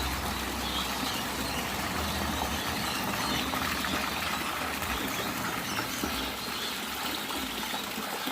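Steady rush of running water in a garden fish pond, with a low hum under it that fades in the first half.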